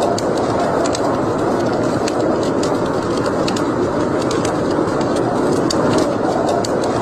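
Wood fire burning in a fireplace: a steady rushing sound with many small, sharp crackles and pops scattered through it.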